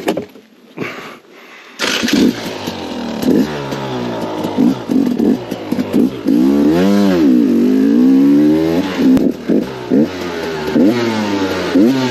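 Faint knocks at first, then about two seconds in the KTM 250 XCW's two-stroke engine comes in loud, revving up and down with a long rise and fall and repeated sharp throttle blips as the enduro bike is ridden.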